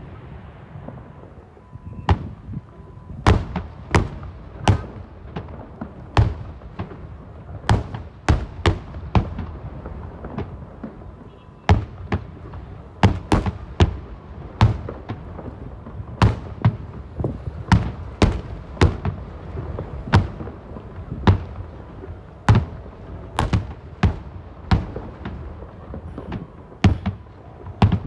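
Fireworks display: aerial shells bursting one after another at an uneven pace, often more than one a second, each a sharp crack with a deep boom, over a continuous low rumble from the barrage.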